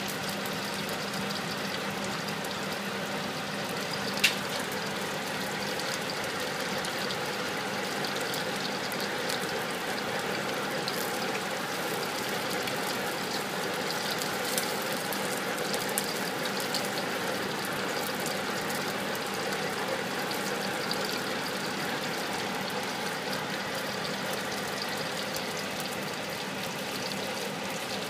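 Prawns sizzling in hot oil in a stainless steel wok, with a steady hum underneath. A black spatula stirs them, giving a few sharp clacks against the wok, the loudest about four seconds in.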